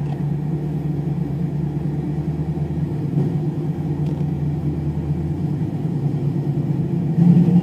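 V8 car engines rumbling at low, steady revs; the engine sound steps up in loudness near the end.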